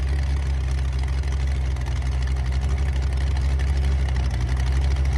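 Hot rod engine running at slow rolling speed, a steady low exhaust note with no revving.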